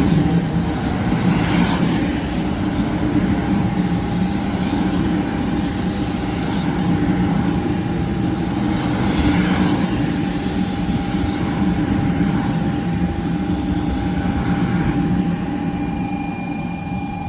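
Shinkansen bullet train running, heard inside the passenger car: a steady low rumble of wheels and running gear with a faint steady whine above it and a few brief hissing swishes. The rumble eases slightly near the end.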